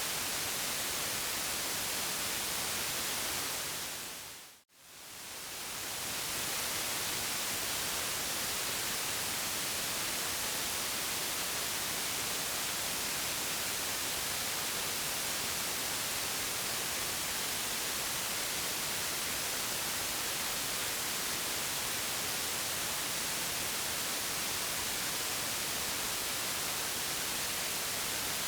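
Steady white noise hiss, brightest in the high end. About four seconds in it fades down to silence and straight back up, as at a loop point in the track.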